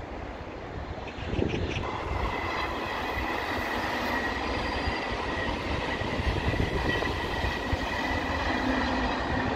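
A passenger train running past on the tracks: a steady rail rumble that swells about a second and a half in and then holds, with a steady high-pitched ringing of wheels on rail over it.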